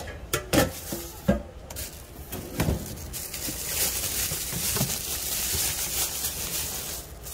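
Egg batter sizzling around sausages in a hot egg-bread pan, a crackly hiss that swells from about halfway in. A few sharp clinks come in the first second or so.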